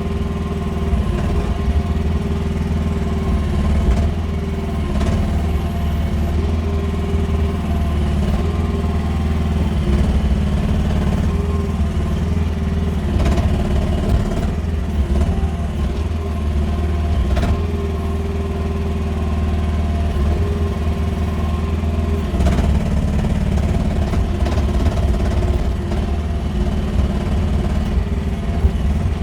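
QH13R mini excavator's engine running steadily under work, with a few sharp knocks now and then.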